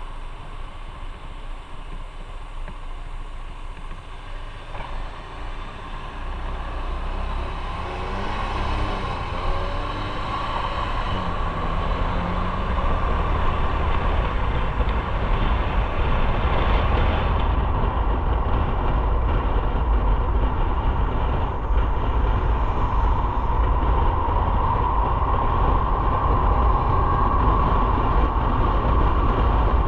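Motorcycle on the move: engine and wind rush on the microphone, getting louder over the first half as the bike picks up speed, then holding steady.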